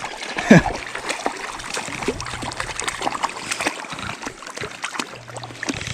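Creek water splashing and trickling, with irregular small splashes from a hooked fish thrashing at the surface.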